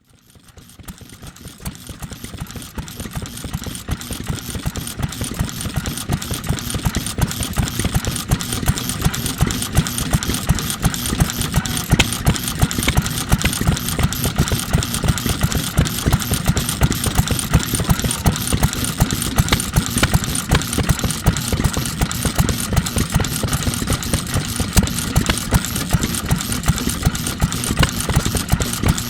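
Circa-1948 NATIONAL Type FK 3 hp single-cylinder stationary engine running steadily, with an even, rapid beat of firing strokes. The sound fades in over the first few seconds.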